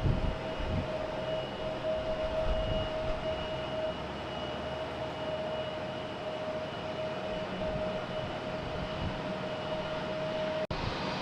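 Jet airliner engines running with a steady, even whine over a low rumble. The sound cuts out abruptly for an instant near the end.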